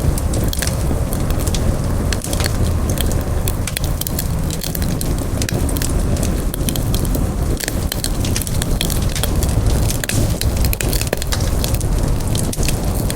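Campfire burning: many sharp, irregular pops and crackles from the burning wood over a steady low rumble of the flames.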